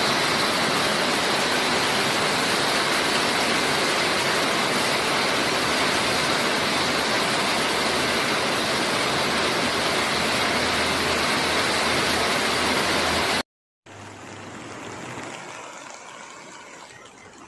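Loud, steady rush of fast-flowing floodwater. It cuts off suddenly about three-quarters of the way through and is followed by a quieter rushing sound.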